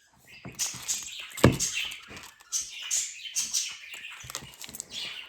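Small plastic toy figures being handled: scattered clicks, scrapes and rustles, with one louder knock about one and a half seconds in.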